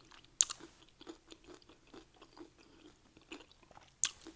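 A person chewing Doritos nachos, with two loud crisp crunches of a bite, one about half a second in and one near the end, and steady chewing strokes in between.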